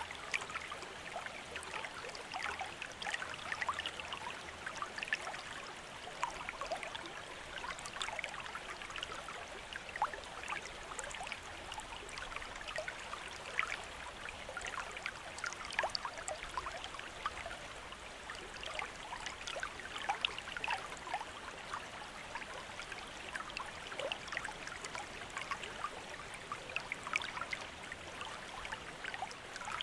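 Water from a bamboo fountain trickling and splashing steadily, with many small irregular drips.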